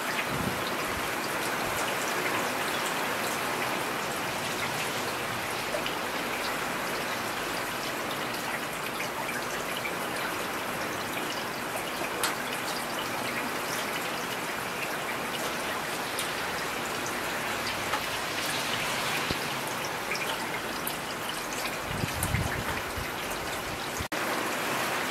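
Steady rain falling, an even hiss of drops with an occasional louder drip, and a brief low rumble near the end.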